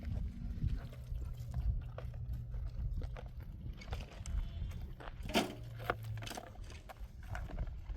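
A flock of sheep and goats: scattered hoof clicks and knocks, with one bleat about five and a half seconds in, over a low steady hum.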